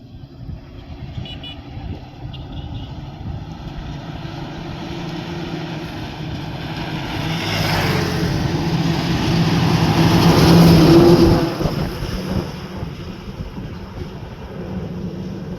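A truck engine running, growing steadily louder as it approaches and loudest about eleven seconds in, then dropping off quickly as it passes.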